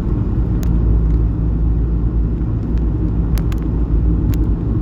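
Steady low rumble of a car driving along, engine and tyre noise heard from inside the cabin, with a few faint clicks.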